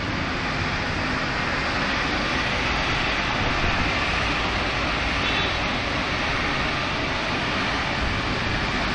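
Automatic car wash machinery running with a steady, loud rushing noise.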